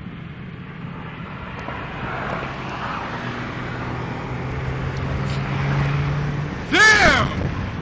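Car engine accelerating hard, its note rising slowly over several seconds and growing louder, heard from inside the cabin over road noise. Near the end comes a brief, loud whooping shout.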